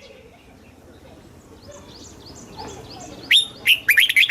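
Red-whiskered bulbul singing: faint high chirping at first, then about three seconds in a loud, quick phrase of short whistled notes that each slide downward.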